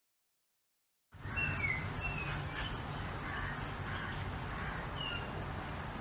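Silence for about a second, then outdoor ambience starts abruptly: a few short, high bird chirps over a steady hiss and low rumble.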